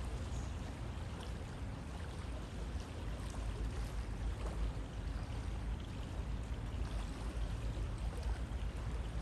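A river flowing steadily: an even rush of water with a deep low rumble, and faint small splashes scattered over it.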